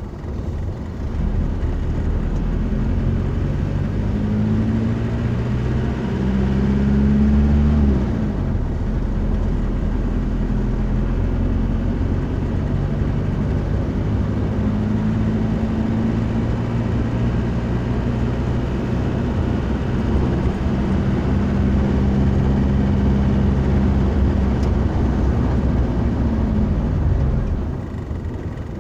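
Vehicle engine running under way, with road noise. The engine note climbs under acceleration and drops sharply about eight seconds in, as at a gear change, then holds a steady pitch before easing off near the end.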